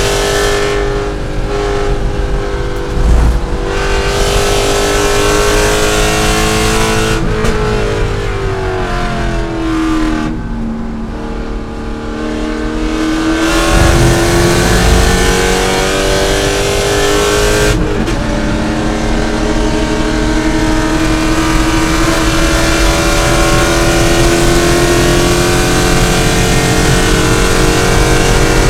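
C5 Corvette's 5.7-litre V8 at racing speed: the engine note holds steady, falls away for a few seconds as the car slows, then climbs steadily under power to the end, with a brief break in the sound about seven seconds in and again near eighteen seconds.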